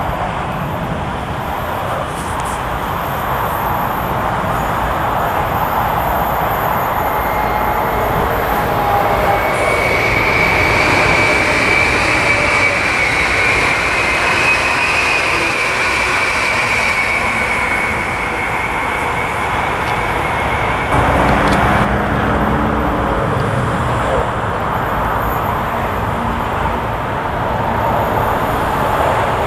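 Munich S-Bahn electric multiple unit passing on the line, a steady rush of wheels on rail with a high whine that swells and fades over about ten seconds. About two-thirds of the way through, a lower steady hum comes in as an Alex train hauled by a BR 223 diesel locomotive approaches.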